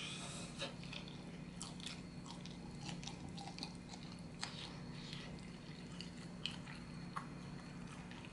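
A person chewing a lemon pepper chicken wing: irregular small mouth clicks over a steady low hum.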